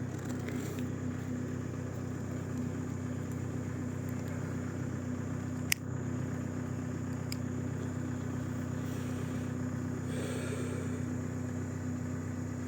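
Ford Ranger engine idling steadily after a cold start at −10 °C, with one sharp click about six seconds in.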